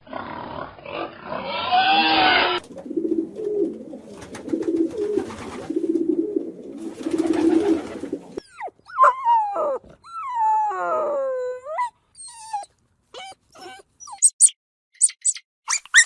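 A run of animal calls: several seconds of low pulsing grunts or growls, then long gliding whines and cries that rise and fall, then short high squeaks near the end.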